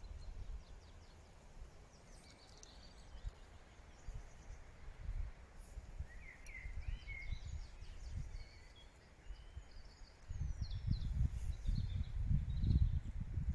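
Wind rumbling on the microphone in gusts, strongest in the last few seconds, with songbirds chirping and singing faintly in the woods.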